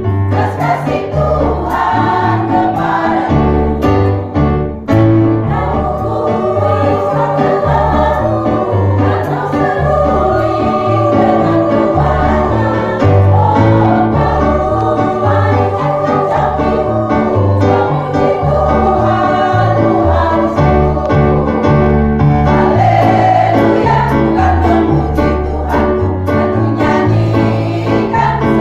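A choir singing a Christian hymn to a backing with a steady, pulsing bass line.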